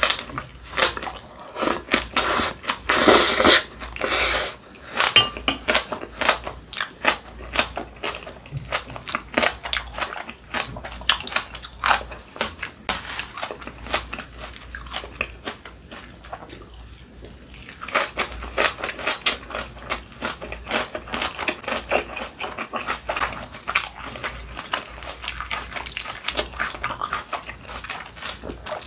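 Close-miked chewing of spicy kimchi, then kimchi kimbap, with crisp crunching bites and wet mouth sounds. The loudest stretch of crunching comes about three seconds in, and there is a short lull past the halfway point before the chewing picks up again.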